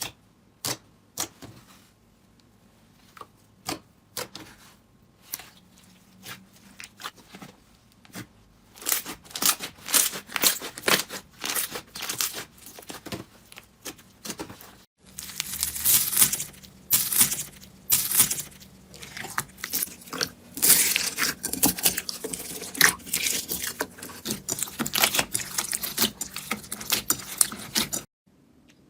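Slime being squeezed, stretched and poked by hand, giving sticky crackling, clicking and popping. The pops are scattered at first and turn into dense, continuous crackling about nine seconds in.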